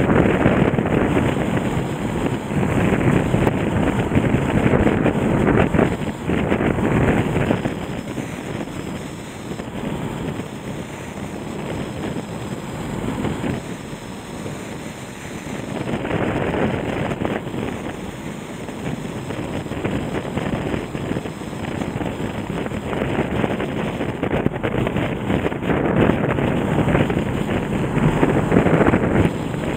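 Floodwater of the swollen Nagara River rushing past in a steady noise, with wind buffeting the microphone. It is louder at first, eases in the middle, then rises again.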